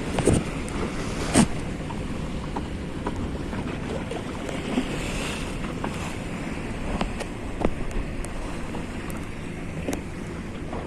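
Wind buffeting the microphone over the wash of waves around a small boat at sea, with a few sharp knocks, the loudest about a second in.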